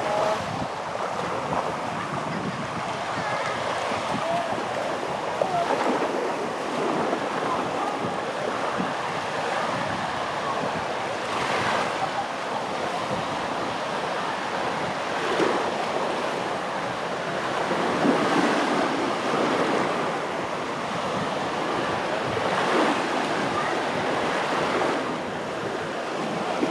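Sea surf on a sandy beach: a continuous wash of small waves, swelling as a wave breaks every few seconds, with some wind on the microphone.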